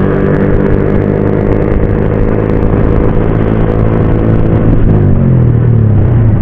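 Motorcycle engine running at a steady cruising speed, heard on board, then its note falls about five seconds in as the revs drop.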